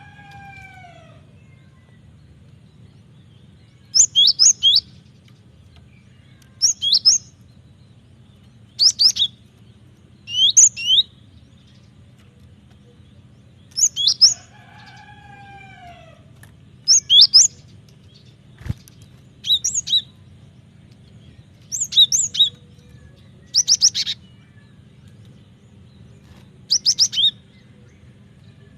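Cinereous tit (gelatik batu) singing: short bursts of a few rapid high, sharp notes, repeated every two to three seconds. Twice, a lower falling call from another bird sounds among them, and a single sharp click comes about two-thirds of the way through, over a steady low hum.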